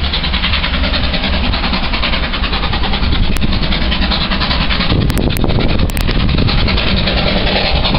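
Steam-hauled train double-headed by LNER A4 Pacific 'Union of South Africa' and an LMS Black 5 passing close, a loud continuous rumble and rattle that shifts in tone about five seconds in.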